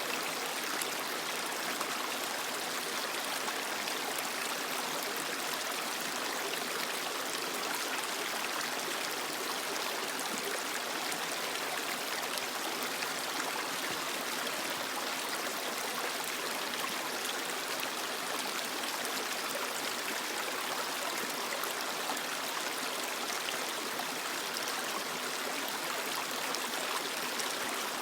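Creek water running and splashing over rocks, a steady even rush with no change.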